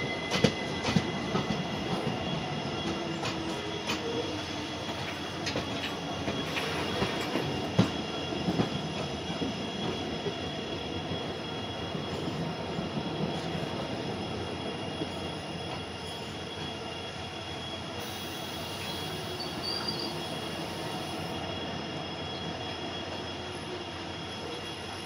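Passenger train running along the track, heard from on board: a steady rumble of wheels on rail with a thin, steady high-pitched whine. There are sharp clicks over rail joints through the first several seconds, then it runs smoother.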